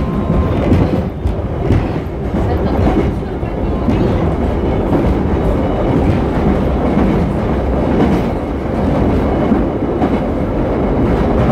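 Class 483 electric train, former London Underground 1938 tube stock, running at speed, heard inside the carriage: a steady loud rumble of wheels on rails with a clack now and then over the rail joints on rough track.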